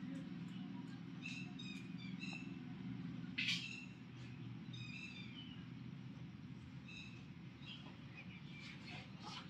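Small birds chirping in short calls, several times, over a steady low hum, with one brief sharper sound about three and a half seconds in.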